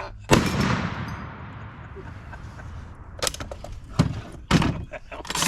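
A loud blast about a quarter second in, its echo rolling away over about two and a half seconds, then four or five sharper bangs in quick succession near the end.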